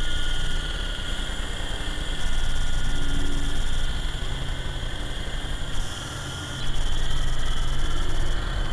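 MJX T40 RC helicopter's electric motors and rotors whining steadily in flight, the level rising and falling every second or two as the small helicopter is buffeted by gusty wind.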